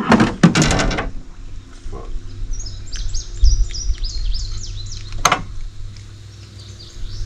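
A small songbird calling in runs of short, high chirps, with one sharp click about five seconds in and a low rumble underneath.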